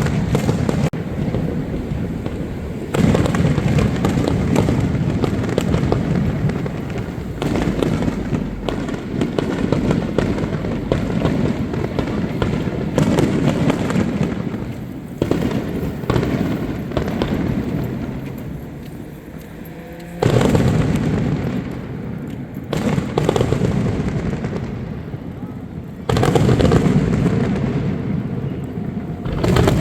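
Large aerial firework shells bursting one after another, a boom every few seconds, each trailing off in a long rolling rumble and crackle.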